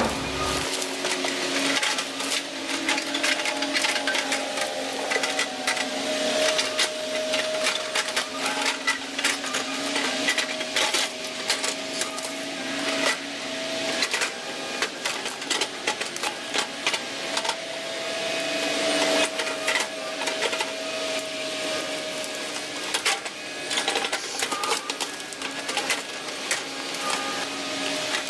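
Volvo ECR145EL excavator's diesel engine and hydraulics running under load, a steady hum with a whine that drifts slightly up and down in pitch. Many sharp cracks and knocks are heard throughout.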